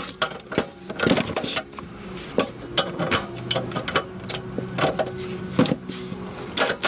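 Irregular metallic knocks and clanks from the removed transmission and tools being handled, over a faint steady hum.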